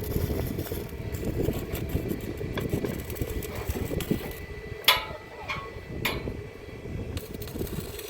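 Two ringing metal clanks, about five and six seconds in, over a steady low rumble.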